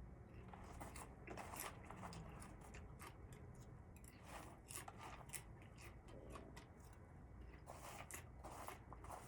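Faint scattered clicks and crackles over a low steady hum, near silence.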